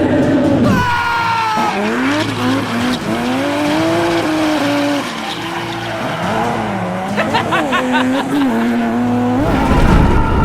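Car engine revving up and down over and over, as in a racing sound effect. Near the end it gives way to a steady high whine over a low rumble.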